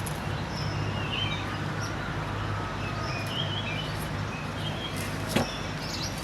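Small birds chirping here and there over a steady low hum, with a single sharp knock about five seconds in.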